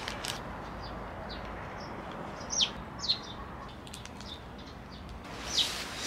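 Outdoor ambience with a steady background hiss and three short bird chirps, each falling in pitch: two just past the middle and one near the end.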